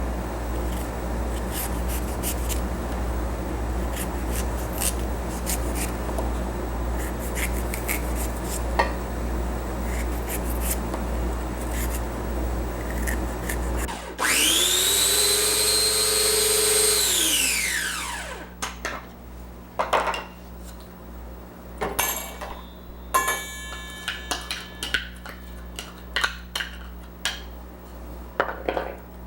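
Steady scraping and rubbing for about half the time, then a small electric food chopper runs loudly for about three and a half seconds and winds down with a falling whine. Light clinks of utensils and dishes follow.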